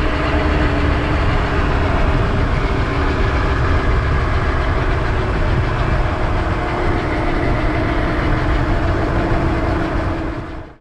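Honda NSR250R MC28's two-stroke V-twin engine running steadily, with a heavy low rumble under it; the sound fades out near the end.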